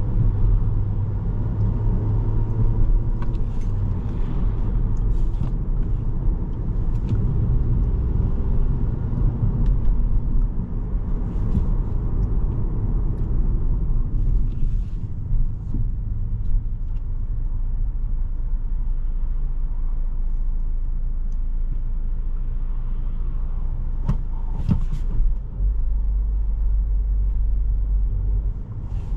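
Inside the cabin of a 2017 Volkswagen Jetta SE with a 1.4-litre turbo four-cylinder and 5-speed manual, driving: steady engine and road rumble, with a few clicks near the end.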